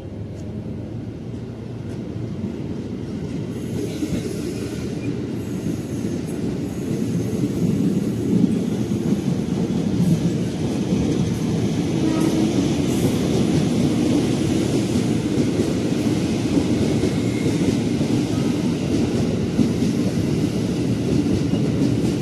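Electric commuter train on the line: a rolling rumble that grows louder over the first several seconds as the train comes near, then runs steadily.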